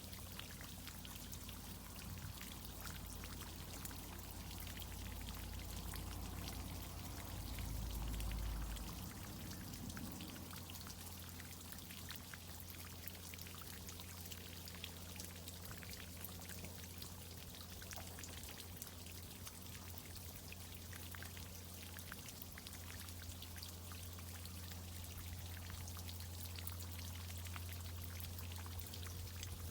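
Water from a tree-irrigation system pouring and spattering in many small drops, over a steady low hum. A low rumble swells briefly about eight seconds in.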